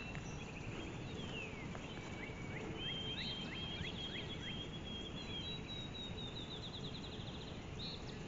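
Several songbirds singing in a morning chorus: short chirps and down-slurred notes, with rapid trills in the middle and later part, over a steady background hiss.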